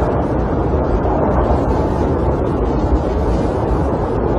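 Snowstorm wind blowing steadily around a camper, a dense low rush of noise with no breaks.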